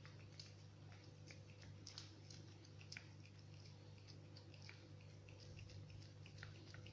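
A cat chewing banana: faint, quick, irregular wet clicks and smacks throughout, over a steady low hum.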